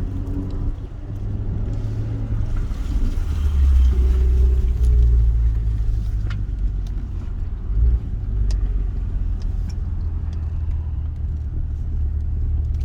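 Maserati Ghibli SQ4's twin-turbo V6 running through a home-built custom exhaust, with a deep, steady exhaust note that swells briefly about four seconds in.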